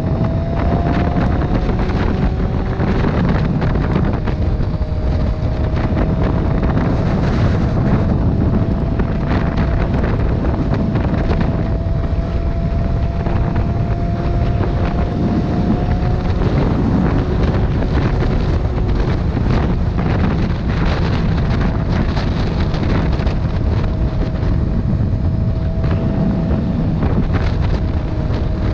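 Motorcycle ride with heavy wind buffeting the microphone, steady throughout, and the engine's hum faintly heard underneath, rising slowly in pitch as the bike picks up speed.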